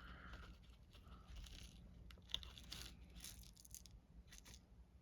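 Faint rustling and scattered light clicks of small shaker-card bits being handled and dropped into the card's foam-walled centre.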